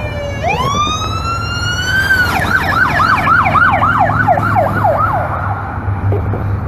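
Electronic siren on a police escort vehicle. It sounds a long rising wail, then about two seconds in switches to a fast yelp that sweeps up and down three or four times a second before fading out. A steady low rumble of vehicle engines runs underneath.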